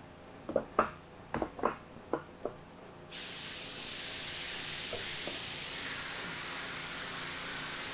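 A few sharp clicks and knocks, then about three seconds in a paint spray gun starts a steady hiss of air and paint spraying.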